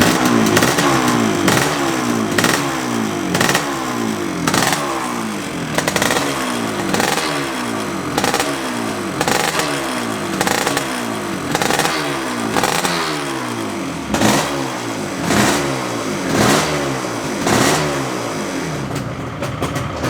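1982 Yamaha RD350LC's liquid-cooled two-stroke parallel twin, just started on choke, revved in repeated throttle blips about once a second.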